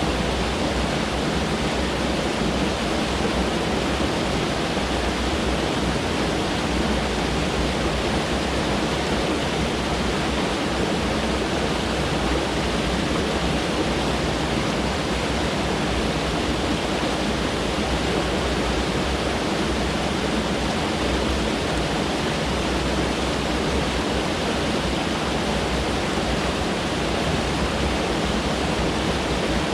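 Mountain stream rushing over rocks close by: a steady, unbroken noise of running water.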